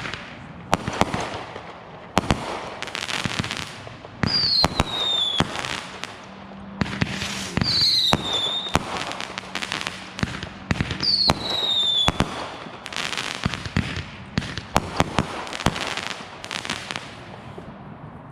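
Backyard consumer fireworks going off: a string of sharp bangs with crackling between them, and three whistles that fall in pitch, about three to four seconds apart.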